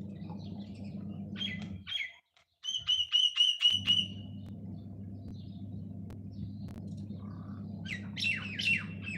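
Small birds chirping: a short call about one and a half seconds in, a quick run of about eight sharp chirps around three seconds, and a cluster of falling chirps near the end. A steady low hum runs underneath and drops out briefly about two seconds in.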